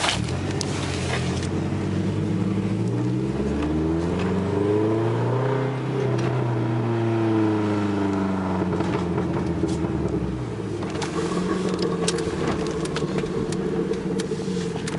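A vehicle engine accelerates, its pitch rising for about three seconds. It then eases off and falls away over a few seconds and settles to a steady cruise.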